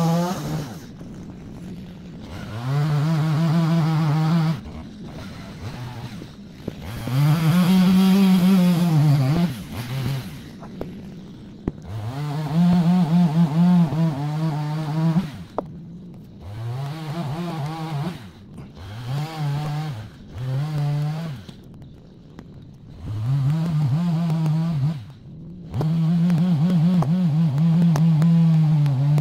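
Two-stroke chainsaw revving up repeatedly in surges of one to three seconds and dropping back between them, while cutting firewood.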